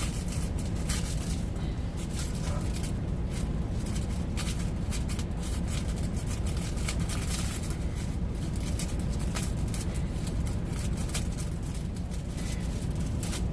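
Steady low rumble of an idling truck heard inside the cab, with scattered light clicks and rustles from handling kitchen items.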